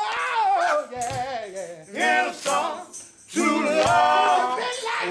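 Gospel group singing: a lead voice slides through a long, wavering line, then the voices sing short chords together, with a few percussion hits.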